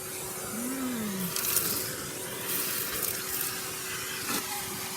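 Vacuum cleaner running with a steady whine while its brush nozzle works over the car floor; the suction hiss surges louder twice, about a second in and again around three seconds.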